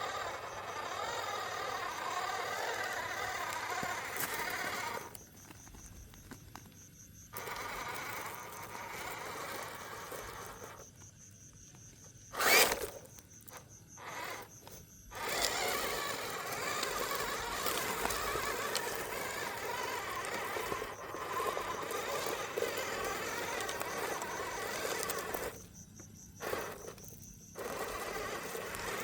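Small electric motor of a toy monster truck whirring with a buzzing whine. It stops and restarts three times, and one sharp knock comes about halfway through.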